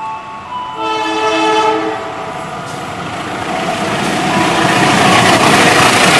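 A diesel locomotive sounds its horn once for about a second, a steady chord of two or more notes. Then the passenger train runs through at speed, its rumble and rail noise growing steadily louder as it passes close by.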